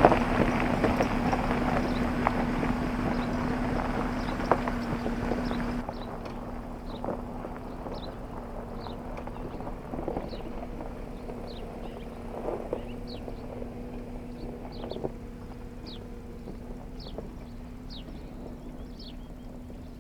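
Scattered knocks and clatter of camping gear being handled, over a steady low hum. From about six seconds in, short high falling chirps repeat roughly once a second.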